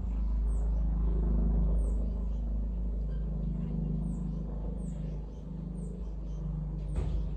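A steady low hum or rumble, with short high chirps falling in pitch every second or so and a single click near the end.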